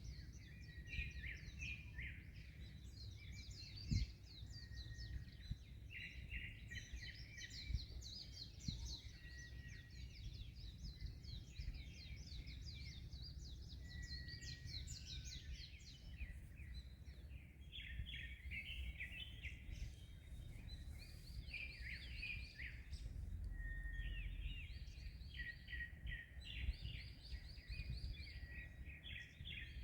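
Many small birds chirping and trilling at once, call over call, over a steady low rumble of wind and surf. A brief thump stands out about four seconds in.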